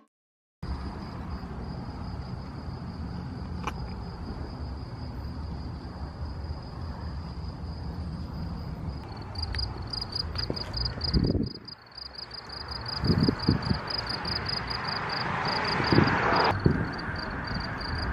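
Insects trilling steadily in a high, thin tone that becomes a rapid pulsing about halfway through, over a steady low rumble. A few dull thumps come in the second half.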